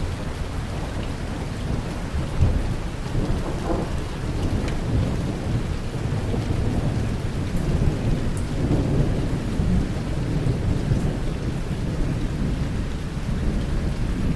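Steady rain falling with low rolling thunder rumbling through, a sharper crack of thunder about two and a half seconds in.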